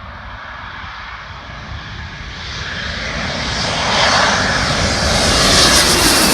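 Twin-engined military jet approaching, its engine noise growing steadily louder and reaching higher in pitch, loudest near the end as it comes close.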